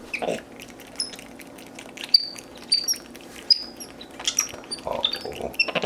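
Capuchin monkeys giving short, high-pitched chirps and squeaks, many brief calls scattered throughout, with a few clicks among them.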